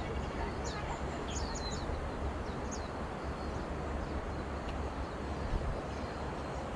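Several short, high bird chirps in the first three seconds or so, over a steady low rumbling noise.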